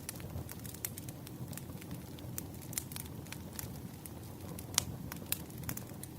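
Wood campfire burning, with frequent sharp crackles and pops over a low steady rush of flame. Two louder pops come a little under a second apart near the end.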